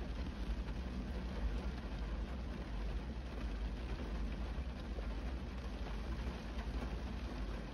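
Steady rain falling on a car's windshield and body, heard from inside the car, with faint drop ticks and a constant low rumble underneath.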